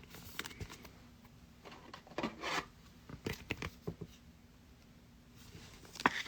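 Trading cards being handled and sorted by hand: soft slides and rubs of cards against one another, with scattered light clicks, the sharpest one near the end.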